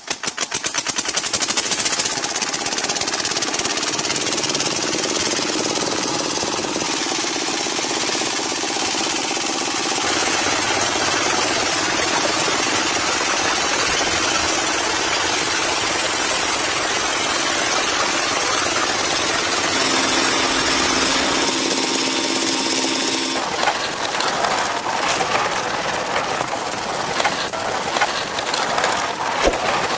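Miniature engine running continuously with a fast, rattling, clattering beat while driving a small water pump; the sound shifts in character about ten seconds in, and again from about twenty seconds, with sharper clicking after.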